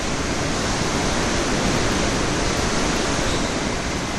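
Heavy rain and strong wind, a loud, steady rushing with no let-up.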